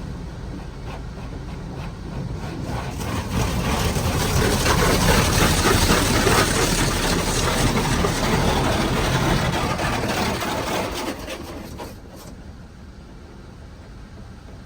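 Water spraying onto a car from a HydroSpray in-bay automatic car wash: a loud hiss of spray builds about three seconds in, holds for several seconds, then falls away, over a steady low rumble of the wash machinery.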